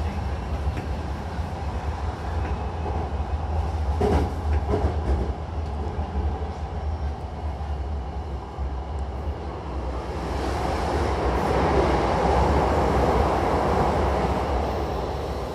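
Hankyu commuter train running, heard from inside the carriage: a steady low rumble with a few rail clacks about four seconds in. A louder rushing noise swells from about ten seconds in and eases near the end as the train pulls into the station.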